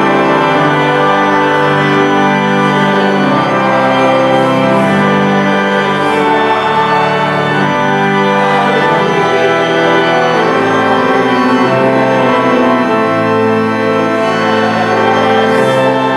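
Church organ music: slow, sustained chords that change every second or two.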